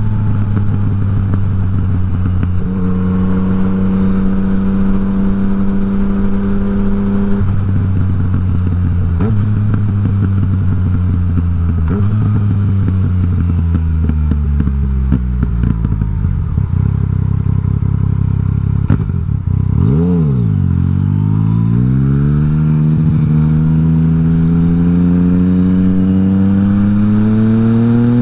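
Yamaha MT-09's three-cylinder engine through an Akrapovič exhaust with the dB killer removed, running under way: its pitch holds and steps through gear changes, falls away as the bike slows, dips sharply and recovers about twenty seconds in, then climbs steadily as it accelerates.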